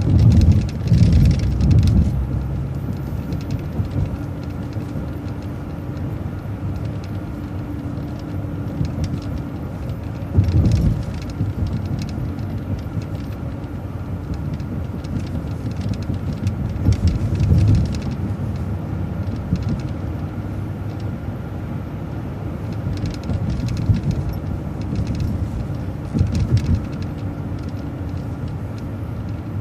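City transit bus running on the road, heard from inside: a steady engine and road rumble with louder low surges near the start and a few more times along the way.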